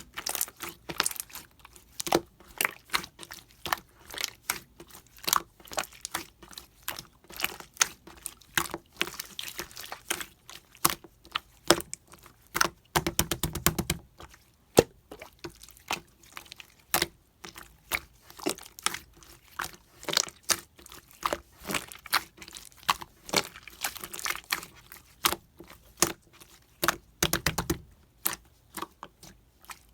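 Slime being squeezed and poked by hand, giving irregular sharp pops and clicks several times a second, with a longer, denser squelching stretch about 13 seconds in and again near the end.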